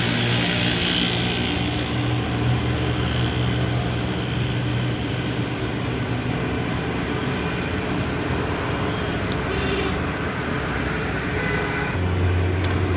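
A motor running steadily with a low hum under a wash of noise; a deeper hum comes in near the end.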